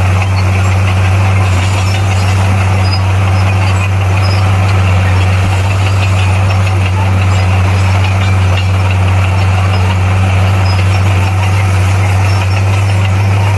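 Bulldozer's diesel engine running at a steady speed, with a constant low drone and no change in pitch.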